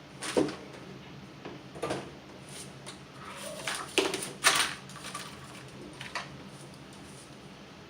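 Small tools and parts handled on a workbench: a few scattered knocks and clicks, the loudest two about four and four and a half seconds in.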